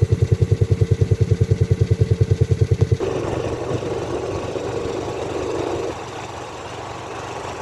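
Vehicle engine running with a rapid, even throb of about a dozen pulses a second. About three seconds in, the throb gives way abruptly to a steadier, smoother running sound.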